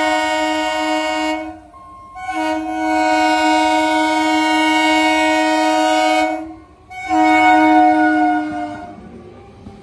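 Vande Bharat Express train's multi-note horn sounding loud blasts: one ending about a second and a half in, a long blast of about four seconds, then a shorter one near the end.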